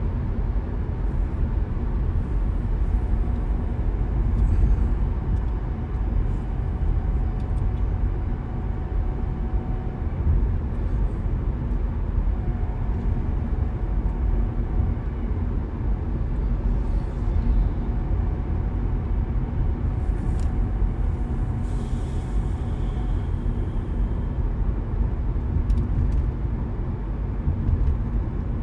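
Car being driven at steady speed: a continuous low rumble of engine and tyres on the road, with a faint steady whine.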